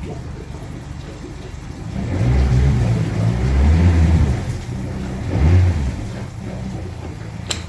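2011 Mercury 60 hp inline four-cylinder EFI four-stroke outboard running in neutral. It revs up about two seconds in and holds for a couple of seconds, then gives a shorter blip of throttle and settles back to idle. A sharp click comes near the end.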